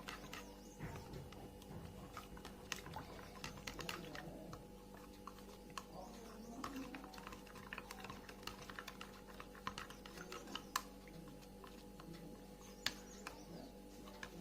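A spoon stirring instant dry yeast into sugar water, clicking lightly and irregularly against its container.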